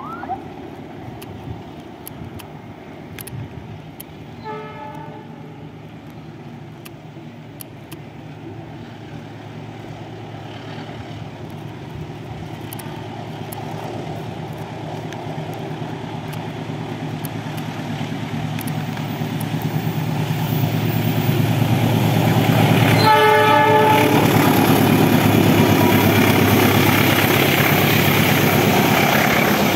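Diesel train approaching, its engine and wheels growing steadily louder, then running past close by. Its horn sounds briefly and faintly about four seconds in, and again loudly, briefly, a little after the sound peaks.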